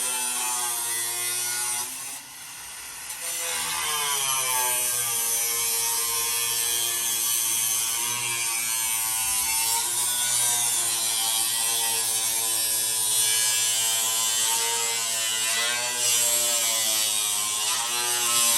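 Angle grinder with a cutoff wheel cutting through the thin top skin of a car's sheet-metal hood: a steady motor whine that sags in pitch as the wheel bites and picks back up. It eases off about two seconds in, then spins back up and keeps cutting.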